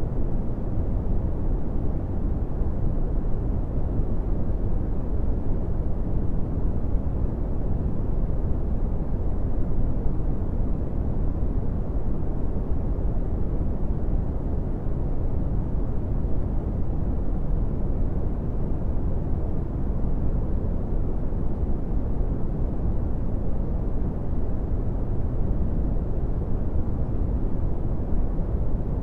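Brown noise: a steady, deep rushing hiss, heaviest in the bass and with little treble, unchanging throughout.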